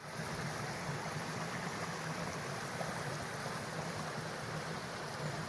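Steady rushing of a river flowing fast, an even wash of water noise.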